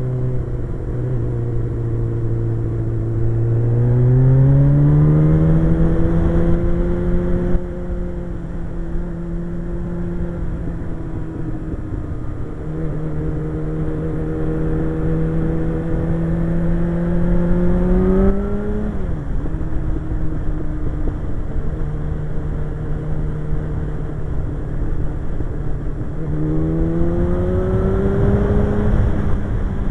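Suzuki GSX-R1100 motorcycle's inline-four engine running under way. The engine speeds up about four seconds in, holds steady, drops briefly about two-thirds of the way through, and climbs again near the end.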